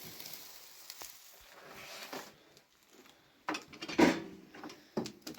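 Dishes and utensils being handled, with a few knocks and clatters, the sharpest about four seconds in, over a low hiss.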